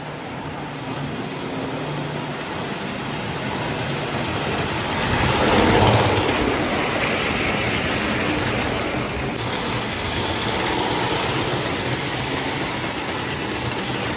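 Postwar Lionel O gauge toy train running on its three-rail track, a steady rolling rumble that swells to its loudest about six seconds in as it passes close, then runs on evenly.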